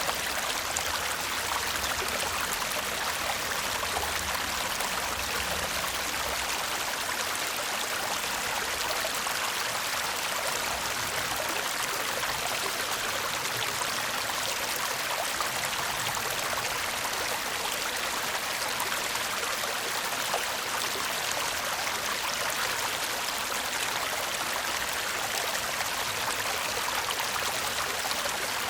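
A shallow stream babbling and murmuring steadily over stones, an even rush of water.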